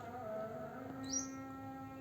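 A songbird gives a single short rising chirp about a second in, during a pause between its loud chirp series, over a faint steady hum.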